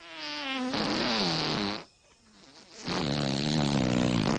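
Two long rasping, fart-like blasts with a wavering pitch, the second starting about three seconds in after a short gap.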